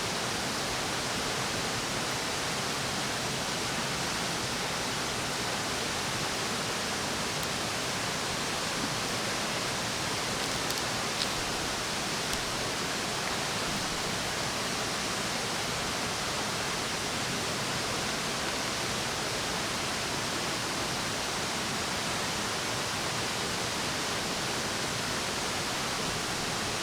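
A steady, even rushing noise with no tone in it, and a few faint ticks about ten seconds in.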